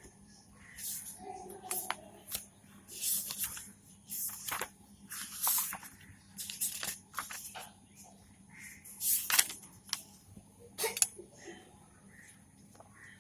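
A man's voice making voiceless consonant sounds one after another, short hissy and breathy puffs such as s, sh, f and h, with no voice behind them.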